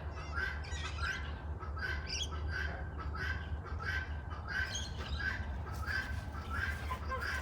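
A bird squawking over and over, about two short harsh calls a second, over a steady low hum.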